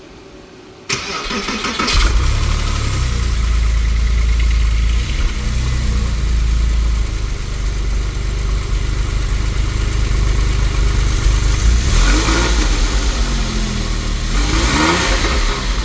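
Porsche 996 40th Anniversary 911's flat-six engine starting from cold: a short crank about a second in, catching within about a second, then running at a steady fast cold idle. Near the end the engine note rises and falls a few times.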